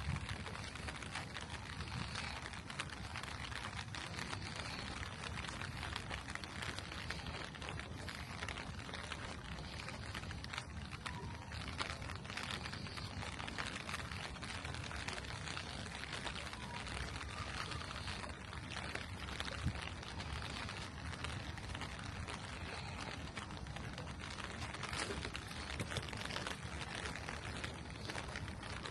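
Steady rain falling on a street, an even hiss of many drops with a low background rumble.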